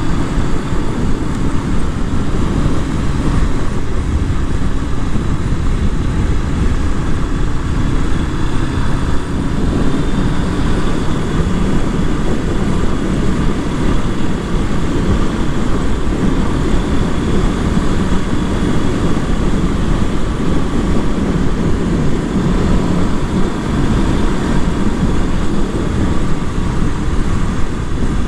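Honda CB500F's parallel-twin engine running through its stock exhaust while riding, with wind rushing over the helmet microphone.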